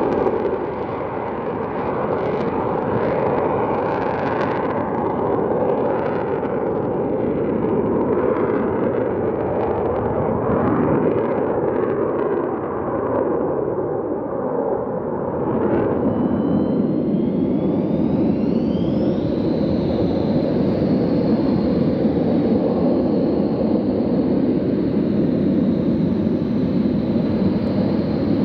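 Eurofighter Typhoon jet noise, rising and falling, for about the first half. After a cut, a Douglas A-4 Skyhawk's turbojet spools up with a rising whine and settles into a steady high whine over the engine noise, as for a takeoff run.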